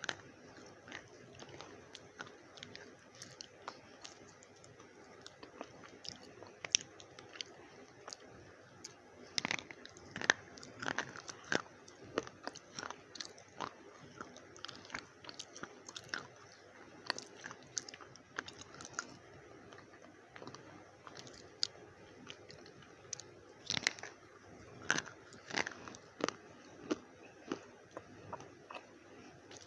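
Slate pencils being bitten and chewed close to the microphone: irregular sharp crunches and snaps between stretches of quieter chewing, with clusters of crunches around the middle and again near the end.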